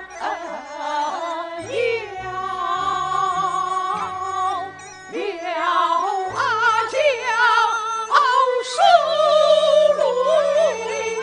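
Kunqu opera singing: a voice holding and bending long notes with wide vibrato over instrumental accompaniment.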